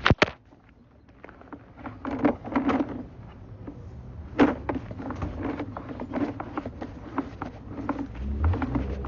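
Irregular scraping, clicking and knocking of a plumbing inspection camera and its push cable being fed through a storm-drain pipe, with a sharp double knock right at the start over a low steady hum.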